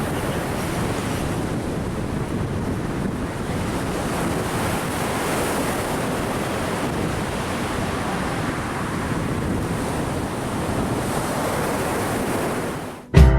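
Wind buffeting the microphone over a steady rush of ocean surf. Right at the end the sound cuts out and music comes in.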